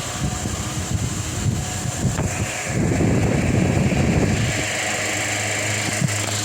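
Delta Gold 50 cm four-blade wall fan running with a steady motor hum. Its airflow buffets the microphone in an irregular low rumble, loudest for a couple of seconds in the middle, then settles back to the plain hum.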